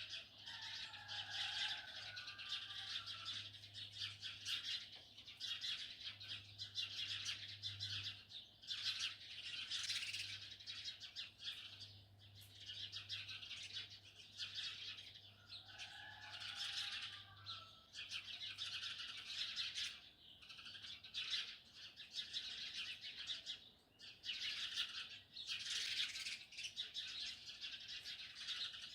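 A dense chorus of small songbirds chirping and twittering without pause. Twice, a lower call falls in pitch over about two seconds, once near the start and once about halfway through.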